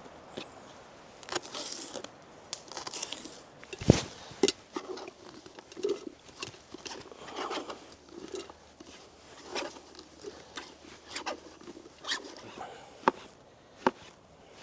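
Knife cutting bell peppers into smaller pieces on a board: crunchy cuts and handling, turning into a run of evenly spaced chops near the end.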